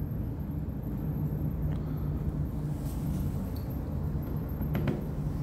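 A steady low hum of background noise, with a few faint, short ticks or taps.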